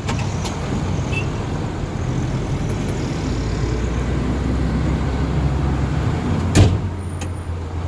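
Road traffic: a motor vehicle engine running with a steady low hum that grows stronger about three seconds in. A single sharp knock comes about six and a half seconds in.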